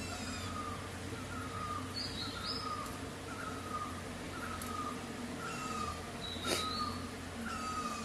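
Bird calls: a short, slightly falling note repeated about once a second, with a few higher chirps over it and a sharp click about six and a half seconds in, over a low steady hum.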